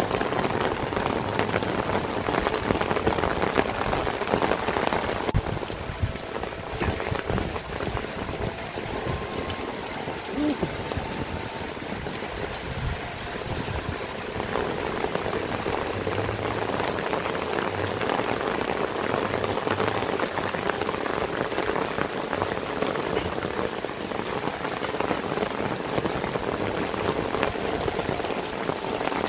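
Heavy rain falling on roofs and ground: a steady hiss with a dense patter of drops. It is a little quieter from about five seconds in and fuller again from about fourteen seconds.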